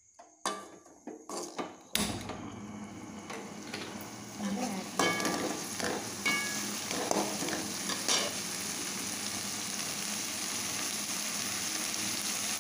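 Fenugreek leaves and spice powder frying in oil in a metal kadai, with a steady sizzle that comes in about two seconds in. A slotted steel spatula knocks, scrapes and clinks against the pan as it stirs, with a few sharp knocks at the start and ringing clinks scattered through the middle.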